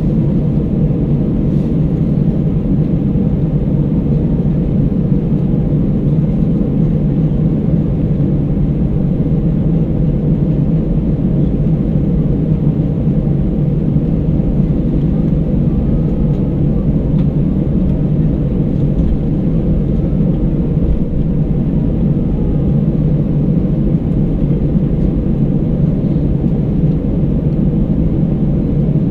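Steady low rumble of cabin noise inside an Airbus A319 airliner, engine drone and air noise heard from a window seat, unchanging throughout.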